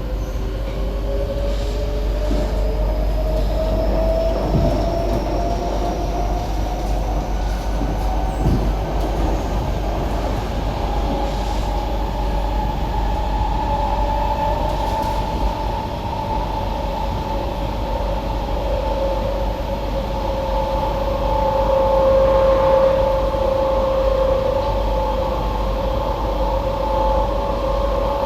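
SMRT C151B metro train running between stations, heard from inside: motor whine rising in pitch over the first few seconds, then holding steady, over constant wheel-and-track rumble.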